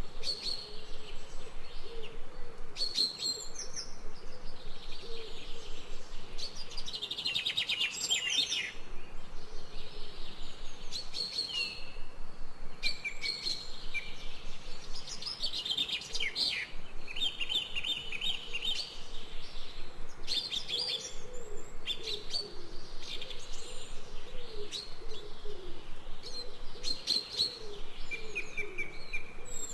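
Several birds singing and calling in a forest chorus: repeated high chirps, rapid trills and short whistled notes, with lower wavering calls recurring throughout, over a faint steady background hiss.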